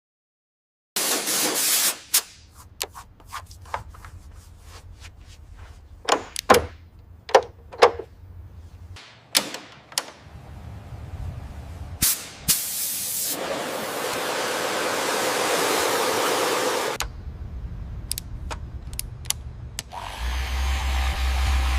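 A string of workshop sounds: hissing spray bursts, one short and one lasting a few seconds, with sharp clicks and knocks between them over a low hum.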